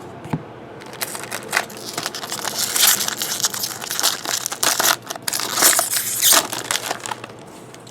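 Crinkling and rustling of plastic or foil trading-card packaging as it is crushed and handled, in irregular crackles that start about a second in and die down near the end.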